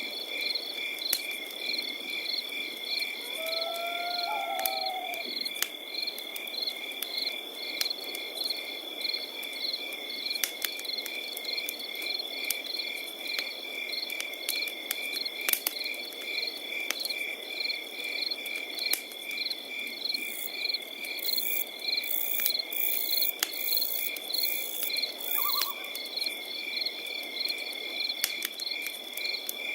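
Crickets chirping in a steady, rapid pulsing rhythm, with the scattered crackles and pops of a campfire burning. A brief gliding call sounds about four seconds in, and again faintly near the end.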